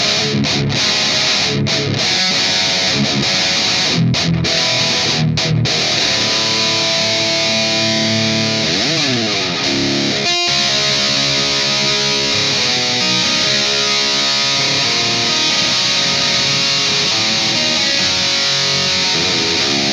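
Distorted electric guitar playing a metal riff. It starts as choppy chugs with short stops, slides in pitch about nine seconds in, and goes on to ringing held chords.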